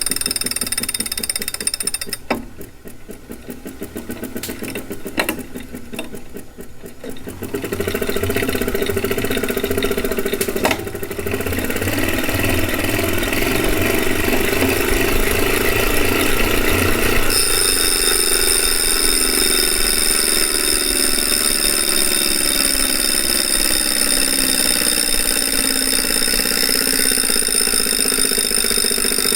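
2018 Wahoo Kickr direct-drive smart trainer running with its flywheel spinning, a loud mechanical whirr and whine. It drops quieter with some clicking a couple of seconds in, then builds back up. Later a high-pitched whine joins and the lower tones slowly fall in pitch. The noise is louder than the trainer should make, though it does not shake the bike, so the owner thinks it is probably not unbalanced.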